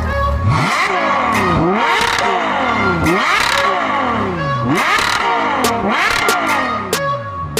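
Sports car engine revved in repeated throttle blips, the pitch dropping and climbing again about once a second.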